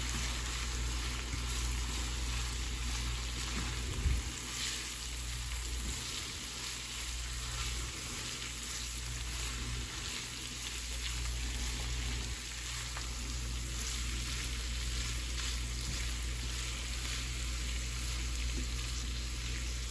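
Ground beef and chorizo sizzling steadily as it fries in a pan, with a single light knock about four seconds in.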